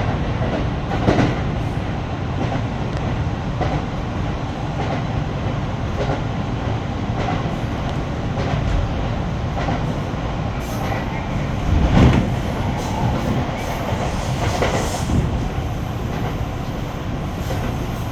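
Kintetsu 9820-series electric train running, heard from inside the rear car: a steady rumble of wheels on rail with a few clacks over rail joints, the loudest about twelve seconds in.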